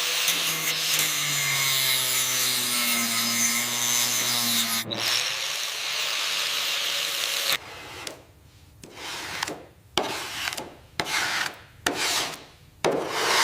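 A power tool runs with a low hum that slowly rises in pitch and cuts off about five seconds in. From about seven and a half seconds on come separate rasping strokes, roughly one a second, like metal being filed or sanded by hand.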